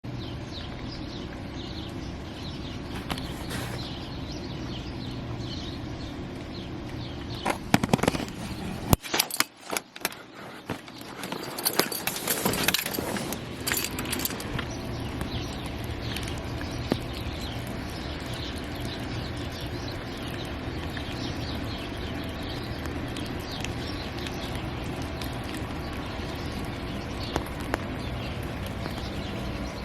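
Outdoor ambience: small birds chirping here and there over a steady low rumble. A burst of knocks and rustling comes about 8 to 14 seconds in.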